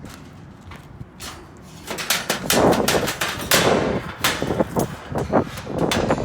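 A rapid, irregular series of knocks and clatters, starting about a second in and growing louder about two seconds in.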